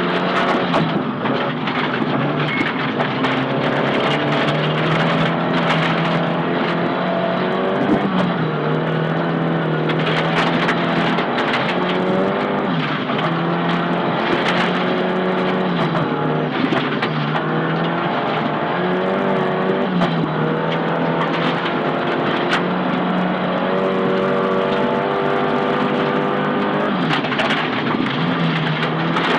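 Inside the cabin of a Nissan Silvia S15 rally car driven flat out on a stage: the engine climbs through the revs and drops back at each gear change or lift, over steady road and tyre noise. Scattered sharp knocks from the road hit the car.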